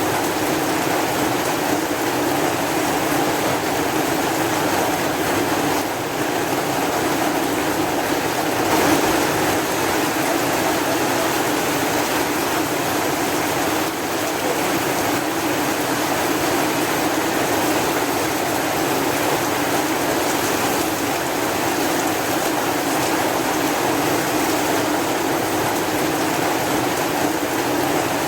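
Heavy, steady rain: an even hiss that stays constant, with no distinct drops or pauses.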